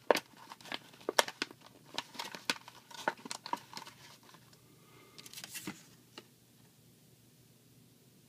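Small plastic toy parts being pried out of a plastic clamshell tray: a run of sharp clicks and plastic crinkling that stops about six seconds in.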